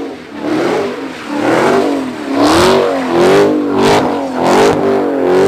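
Car engine revving hard, its pitch rising and falling over and over in repeated surges.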